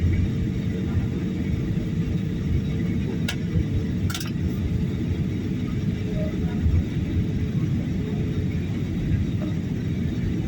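Steady low rumble of airliner cabin noise during the descent to landing, with a faint steady hum running through it. Two short clicks about a second apart come in the first half.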